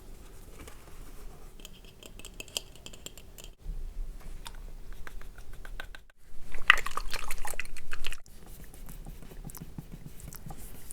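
Close-miked ASMR trigger sounds in short stretches that change abruptly every two to three seconds: fine clicky crackling and tapping, loudest as a dense crackle in the middle.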